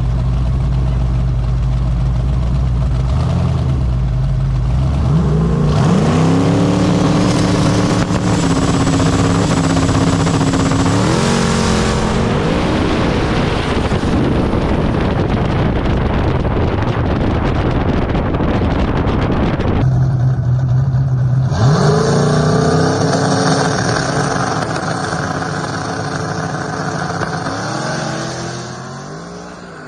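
Twin-turbo LS V8 drag car idling, then launching and accelerating hard, its engine pitch climbing in steps as it shifts through the gears. About twenty seconds in the sound cuts back to idle and the same launch-and-accelerate pattern repeats, fading away near the end.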